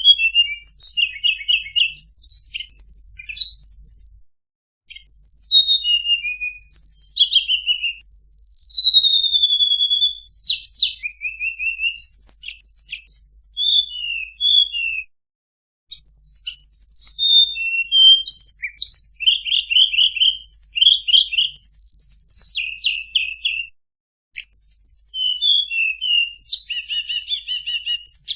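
A tledekan songbird singing a fast, varied song of high chirps, whistles and trills, in phrases with short pauses about 4, 15 and 24 seconds in.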